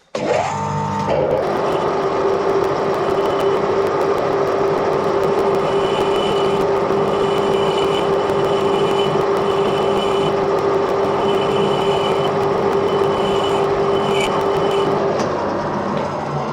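Edgwick lathe starting up with a brief rising whine, then running steadily with a constant hum while it takes a light cut of about one thousandth of an inch on a bush. It winds down near the end.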